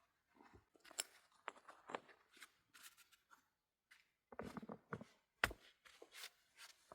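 Irregular small clicks, knocks and rustles, like things being handled close by, with a louder knock about five and a half seconds in.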